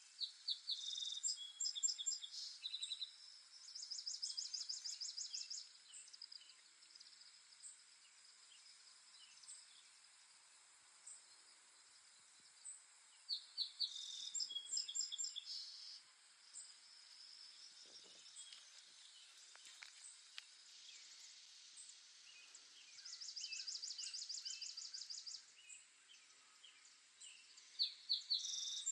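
Songbirds singing: a few bursts of rapid, high trills and chirps, each lasting a couple of seconds and returning every several seconds, over a faint steady background hiss.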